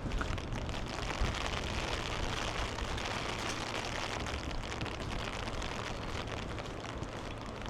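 Steady hiss of water with fine pattering, loudest in the middle, over a low rumble.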